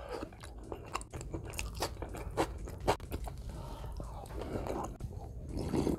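Close-miked chewing of a crunchy bite of mango, with many small crisp crackles and wet mouth clicks throughout.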